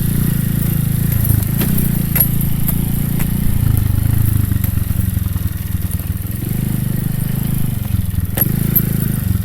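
Honda Cub's small single-cylinder four-stroke engine running under way, its note swelling and easing with the throttle, with a few sharp ticks and clatters over it.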